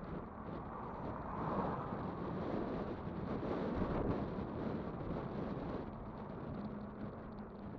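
Wind rushing over the microphone and road noise while riding a Kugoo Kirin V5 electric bike, swelling for a few seconds in the middle. Under it is a faint steady hum.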